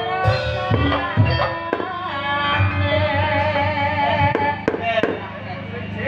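Live ebeg music in dangdut kreasi style: sharp hand-drum strokes under a wavering melodic line and a steady low drone.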